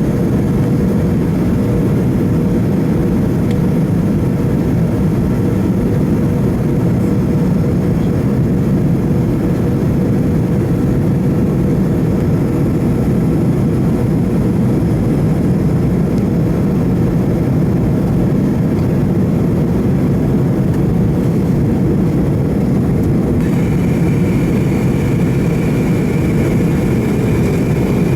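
McDonnell Douglas MD-88's rear-mounted Pratt & Whitney JT8D turbofans heard inside the cabin near the tail as a steady, loud airliner drone in flight. A faint steady high tone joins in near the end.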